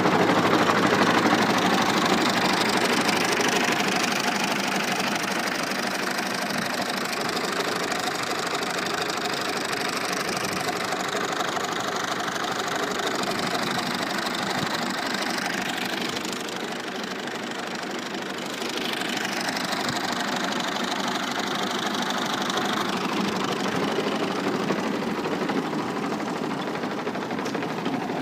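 Al-Ghazi tractor's diesel engine running steadily, loudest at the start, easing off, and dipping briefly a little past halfway.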